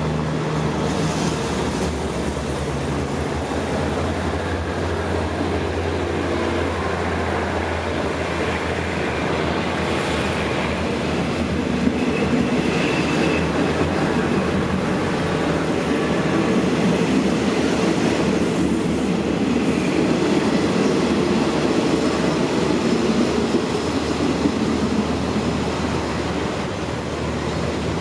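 State Railway of Thailand diesel passenger train passing, with a continuous rumble of wheels on the rails and a low diesel hum in the first half, easing off slightly near the end as the last carriage goes by.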